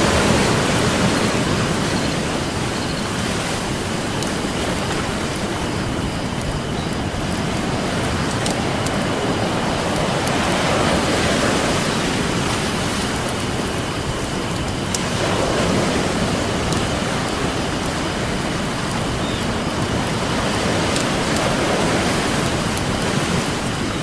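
Ocean waves breaking and washing up the beach, swelling about every five seconds, with occasional sharp crackles and pops from a wood campfire.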